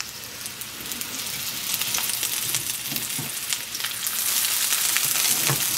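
Impossible-meat meatballs frying in oil in a cast iron skillet: a steady sizzle dotted with small crackling pops, growing louder over the first two seconds or so as fresh oil is poured in.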